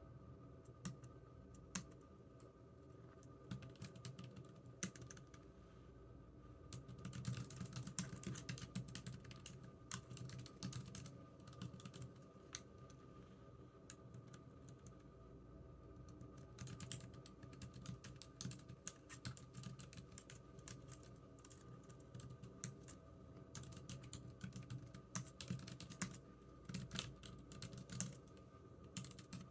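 Typing on a computer keyboard. A few scattered keystrokes come for the first several seconds, then runs of fast typing broken by short pauses.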